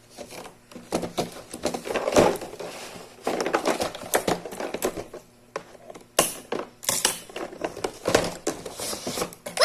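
Plastic toy and its packaging being handled: irregular rustling, clicking and light knocking of plastic parts.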